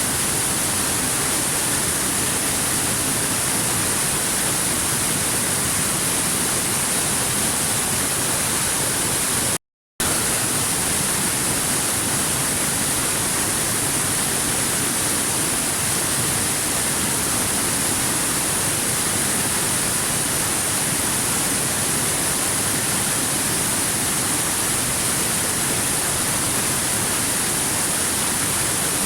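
Steady rushing noise of a waterfall, even and hissy. It drops out completely for a split second about ten seconds in, then resumes unchanged.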